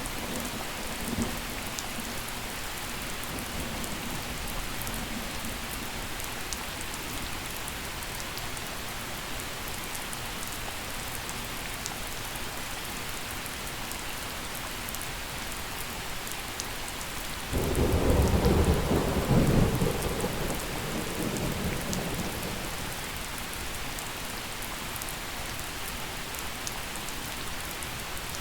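Steady gentle rain falling, with a close thunderclap: a sudden low rumble breaks in past the middle, rolls for about three seconds and fades away.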